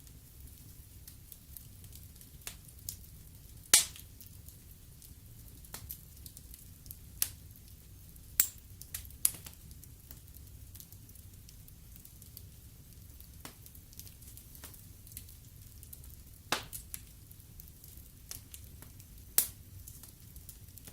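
Wood fire burning in a fireplace, crackling with irregular sharp pops over a low steady rumble; the loudest pops come about 4, 8 to 9, 16 and 19 seconds in.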